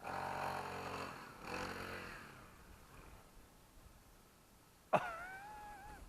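Small 40cc engine of a mini dirt bike revving in two bursts, the second dropping in pitch as it eases off. Near the end comes a sharp click followed by a brief wavering tone.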